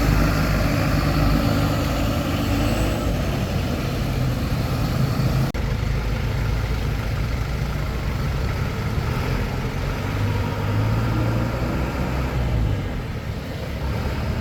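Truck engine running steadily with a low rumble, with a momentary dropout about five and a half seconds in.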